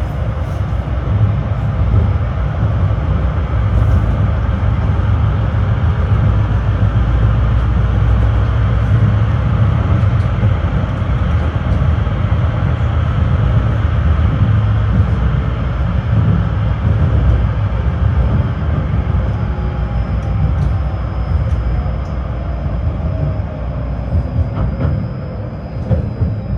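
Tram running along its track, heard from inside the passenger car: a loud, steady rumble of wheels on the rails, easing slightly near the end.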